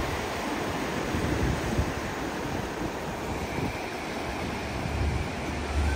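Pacific surf washing in along a rocky shore, a steady rush of waves, with wind rumbling on the microphone, stronger near the end.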